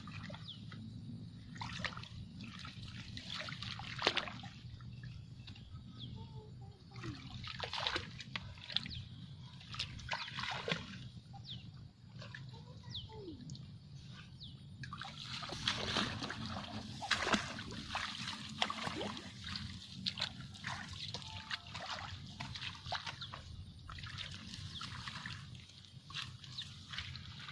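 Many birds chattering together in a dense run of short, sharp chirps and calls, busiest about halfway through, over a steady low hum.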